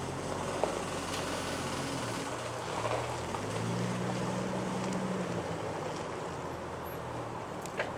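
1996 Jeep Cherokee XJ's engine pulling the moving vehicle, its note rising about halfway through, under a whooshing rattle on acceleration that appeared after the valve cover gasket, PCV valve and PCV breather hose were replaced; the cause is unknown. Two sharp clicks, one just after the start and one near the end.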